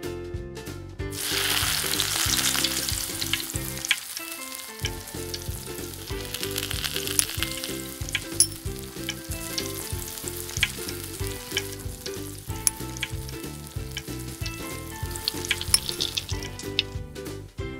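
Wavy potato chips frying in hot oil in a miniature pan: a steady sizzle with sharp pops and crackles throughout, louder in the first few seconds and again around the middle.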